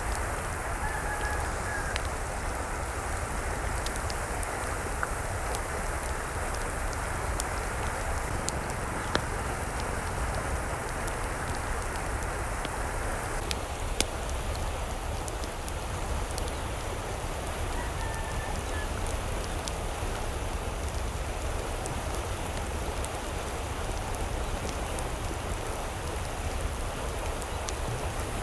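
Steady rain falling, with scattered drop ticks and the sound changing a little in texture about halfway through. A faint short bird call comes twice, about a second in and again around eighteen seconds.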